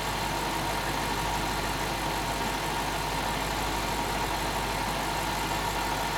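BMW 645Ci's 4.4-litre N62 V8 idling steadily after a cold start.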